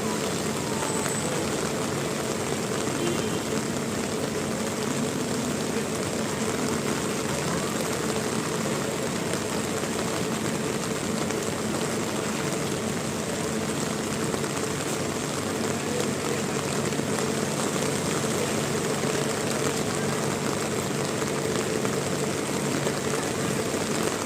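Heavy rain falling, a steady unbroken hiss, with a faint steady hum underneath.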